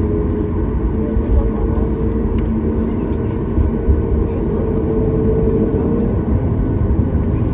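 Jet engine and airflow noise inside the cabin of a Boeing 737 Max 8: a loud, steady rumble with a held whine that rises slightly in pitch.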